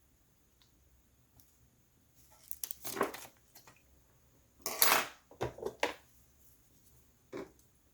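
Clicks, scrapes and rustles of small plastic and metal laptop parts being handled and prised at while a cooling fan assembly is worked loose. They come in two clusters, about three and about five seconds in, with a single click near the end.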